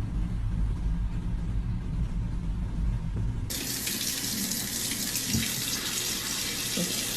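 Running water, like a tap: a low rumble, then a steady hiss that starts suddenly about three and a half seconds in.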